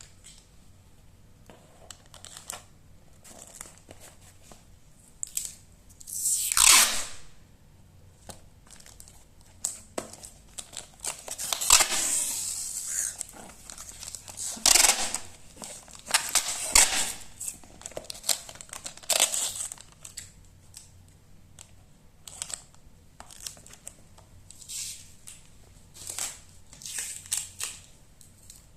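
Packing material being handled: tearing and crinkling in a series of irregular bursts, the longest and loudest about 6 seconds in and again from about 11 to 13 seconds in, with shorter rustles in between.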